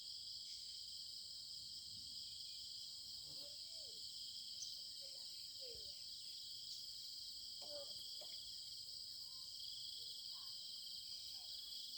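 A steady, continuous high-pitched insect chorus, several layers of chirring at different pitches, with a few faint short calls lower down in the middle.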